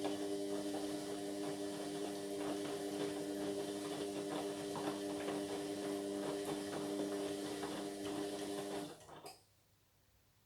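Indesit MyTime washing machine's drum motor turning the drum with a steady hum and whine, laundry and water tumbling inside, then stopping about nine seconds in as the wash-phase tumble pauses.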